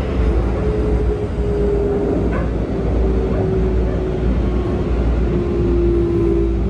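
Running noise heard inside a Keikyu 1000 series train car with a Toshiba IGBT-VVVF drive: a steady low rumble from wheels and rails, with a thin held motor tone that drifts slightly lower.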